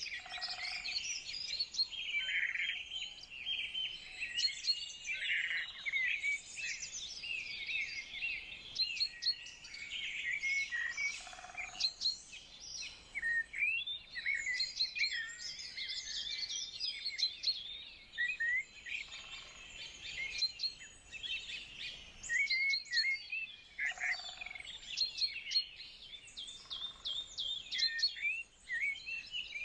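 Several small songbirds singing and chirping at once: a continuous chorus of rapid, high, overlapping twitters and trills.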